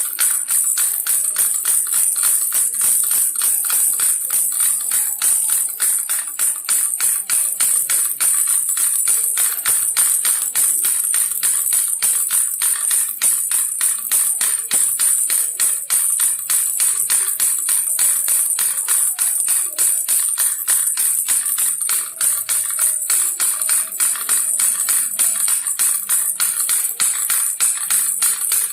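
Baby rattle shaken rapidly and steadily, a continuous bright jingling rattle with no pauses.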